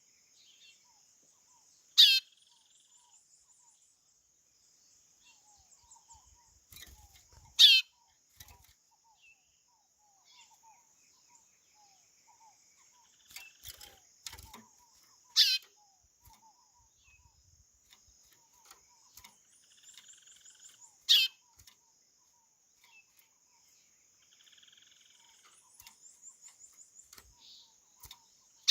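White-bellied seedeater (chorão) giving a loud, sharply falling whistled call five times, one every six to eight seconds. Soft high chirping trills and a faint steady high hiss run between the calls.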